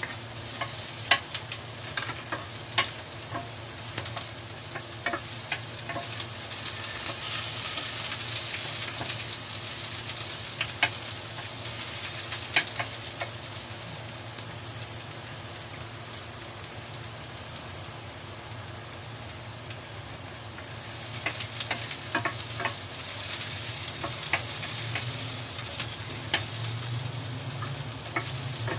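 Chopped garlic and ginger sizzling in a little oil in a frying pan, with a wooden spatula scraping and clicking against the pan as they are stirred. The sizzle grows louder twice, about a quarter of the way in and again past the two-thirds mark.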